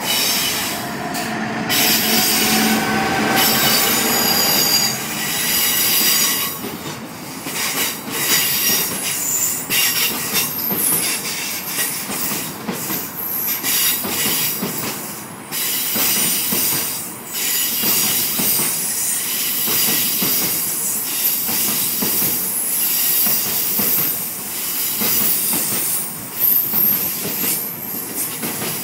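GBRf Class 66 diesel-electric locomotive passing close by, its two-stroke V12 engine note rising over the first few seconds. A long rake of coal hopper wagons then rolls past with high-pitched wheel squeal and repeated clatter over the rail joints.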